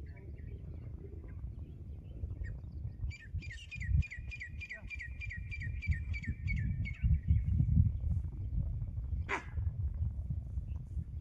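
A bird calling a fast run of repeated chirps, about three a second, for about four seconds, its last note drawn out, over a steady low rumbling noise. A single sharp click comes near the end.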